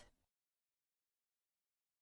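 Silence: a digital gap between spoken words, with only the tail of the last word fading out at the very start.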